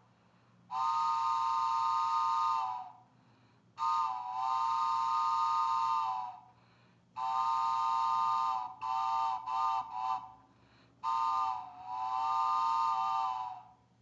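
Handmade wooden four-note whistle imitating an old steam-train whistle, blown as a chord. Four long blasts, with a run of about three quick toots after the third, each blast sagging in pitch as it dies away.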